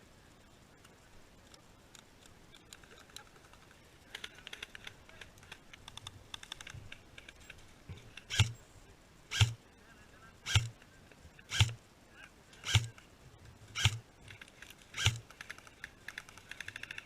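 Airsoft gun fired seven single shots about a second apart, each a sharp crack with a dull thud under it. Stretches of fast ticking clicks come before and after the shots.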